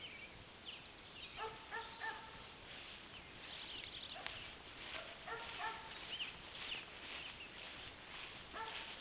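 Wild songbirds chirping, with a short, pitched double note that repeats three times, every three to four seconds.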